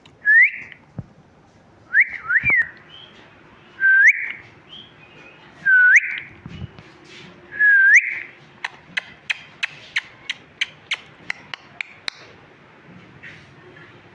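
Pet parrot giving a series of loud, clear upslurred whistles about every two seconds, one of them doubled, followed by a run of sharp clicks about three a second.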